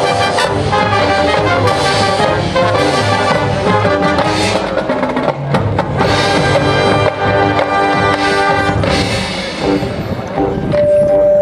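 High school marching band playing, brass over a steady drum beat, ending on a long held note.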